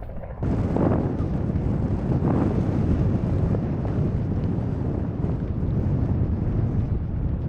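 Wind buffeting the camera's microphone: a steady, low, rumbling noise that starts about half a second in.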